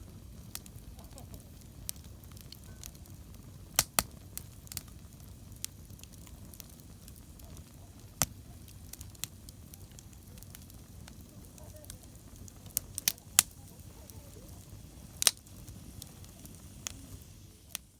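Wood campfire burning: a steady low rumble of flames with scattered sharp crackles and pops, the loudest pops about four, eight, thirteen and fifteen seconds in.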